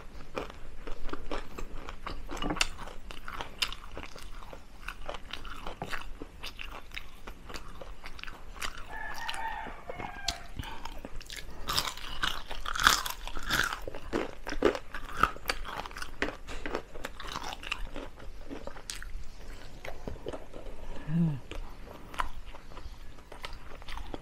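Close-up crunching and chewing of crispy deep-fried chicken feet, the small bones eaten along with the skin: irregular crisp cracks and crackles mixed with wet chewing.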